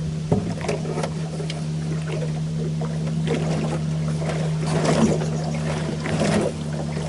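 A catfish being handled at the boat: irregular splashing, knocks and rustling, busiest in the second half, over a steady low motor hum.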